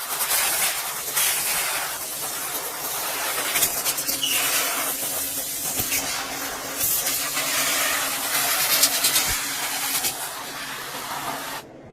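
Steady hissing spray with a low machine hum beneath it, swelling and easing in places, then cutting off suddenly near the end.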